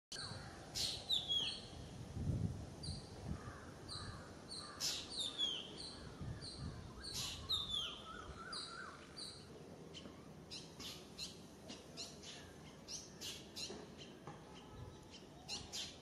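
Wild birds chirping and calling, fairly faint: sharp falling whistles and repeated short high notes through the first half, then a string of quick single chips.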